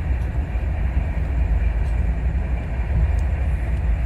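Rajdhani Express passenger train running at speed: a steady, loud low rumble with a rushing noise over it.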